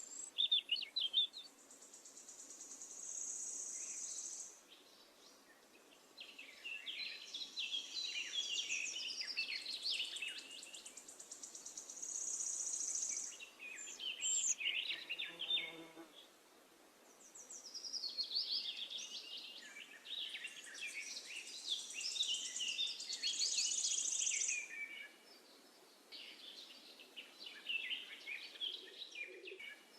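Songbirds singing in repeated bouts of quick chirping notes, mixed with high, buzzy trills, with short lulls between phrases.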